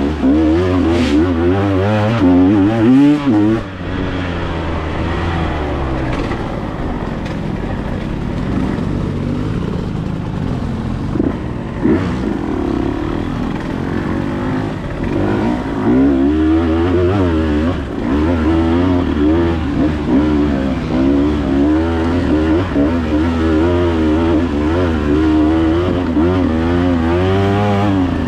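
Dirt bike engine running while being ridden, its pitch rising and falling over and over with throttle and gear changes.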